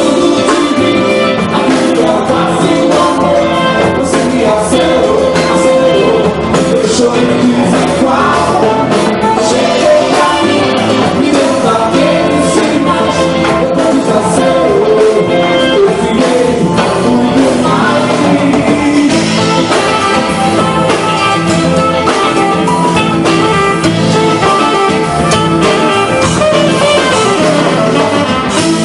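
Live band music played loud and without a break, with guitar and a singing voice.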